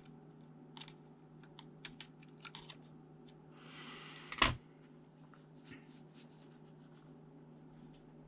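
Hands working on a ThinkPad T400 laptop: scattered small clicks and taps of parts being handled, a brief scraping rustle about three and a half seconds in that ends in one sharp, loud click.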